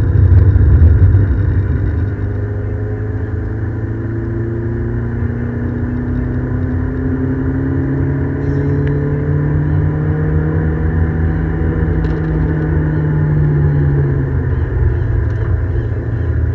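Ford Escort XR3i's 1.8 16-valve four-cylinder engine heard from inside the cabin, pulling steadily up through the revs for about twelve seconds and then easing off near the end. A loud low rumble is heaviest in the first second.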